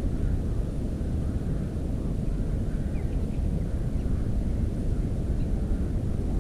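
A continuous low rumble with faint, scattered short bird chirps above it.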